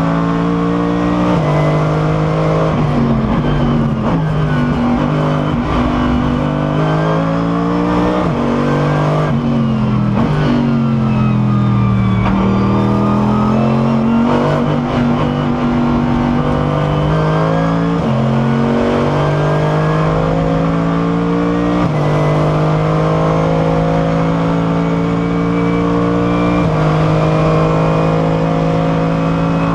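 Mercedes SLS AMG GT3's V8 race engine heard from onboard, pulling hard through the gears: the pitch climbs and drops back at each upshift several times. A little under ten seconds in the revs fall away under braking and then climb again as the car accelerates out.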